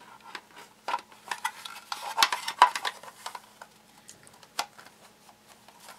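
Toy train set pieces being handled and fitted together: irregular clicks and clacks, loudest about two to three seconds in.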